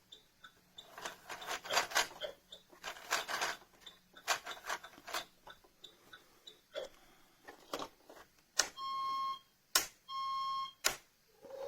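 Clicks and knocks of a plastic toy school bus being handled and its buttons pressed, then two electronic beeps of about a second each, a steady high tone from the toy's sound unit.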